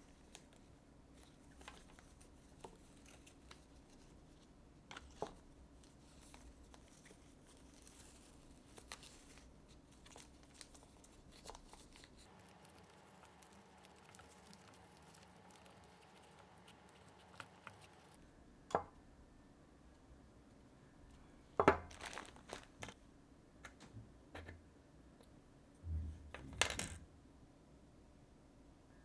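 Scattered light clicks and taps of small objects being handled over a faint steady hum, with louder knocks and a rustle about two-thirds of the way through and near the end.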